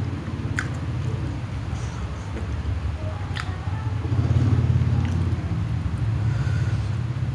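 Close-miked chewing of a last mouthful of spicy fried instant noodles, with a few sharp wet mouth clicks, over a loud, steady low hum.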